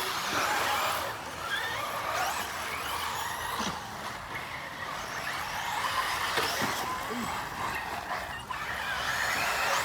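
Electric 1/10-scale RC off-road buggies running on a dirt track, their motors whining and gliding up and down in pitch as they speed up and slow down, over a steady hiss.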